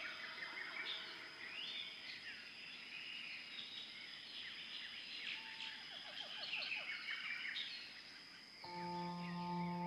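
Several birds calling and singing together in a quick, chirping chorus with a steady high insect-like tone behind. Near the end a held musical drone comes in.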